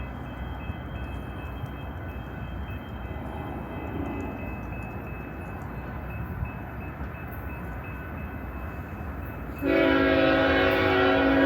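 BNSF freight train rumbling along the track, then a locomotive air horn sounds about ten seconds in: a loud chord of several notes, held.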